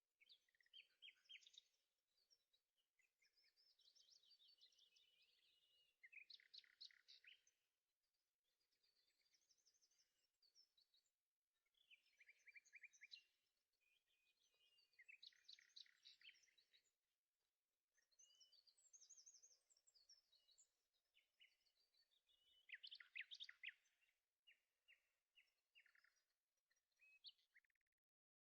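Faint birdsong: a small songbird singing phrases of rapid high trills and chirps, one to two seconds each, with short pauses between. It stops abruptly near the end.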